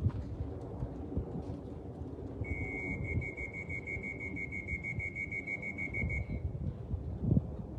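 Electronic pigeon-race clocking system beeping: a rapid, even string of high beeps lasting about four seconds, starting a couple of seconds in. It is the noise the system is supposed to make each time a racing pigeon comes in.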